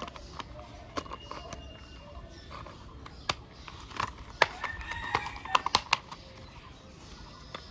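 Scattered clicks and taps of plastic toy-car parts being fitted together and handled, at irregular intervals.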